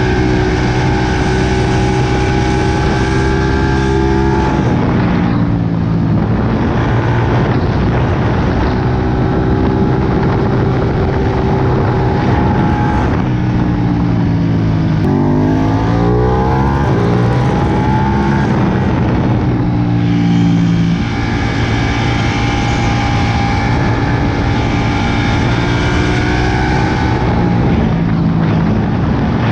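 Ducati Panigale 959's Superquadro L-twin engine running under way at steady revs, with a constant rushing noise over it. The revs fall about five seconds in and again around thirteen seconds in. They then climb in quick steps through several gear changes around fifteen to eighteen seconds in and settle to a steady pitch.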